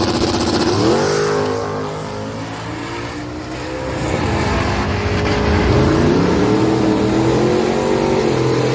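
Drag race car's engine at full throttle down the strip, its pitch climbing, dropping back at a gear change about four seconds in, then climbing again.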